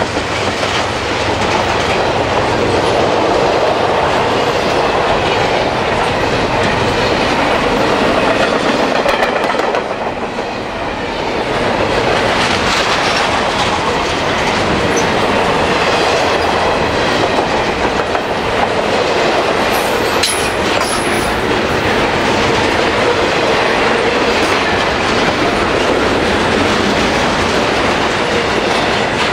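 Double-stack intermodal container train rolling past at about 48 mph: a loud, steady rumble of the well cars' wheels on the rails, easing briefly about ten seconds in.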